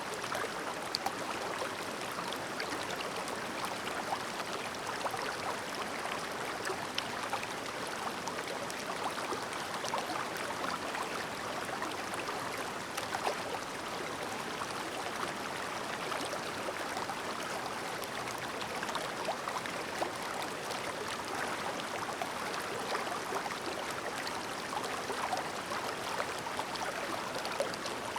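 Clear, shallow river stream babbling steadily, with small splashes and bubbles scattered throughout.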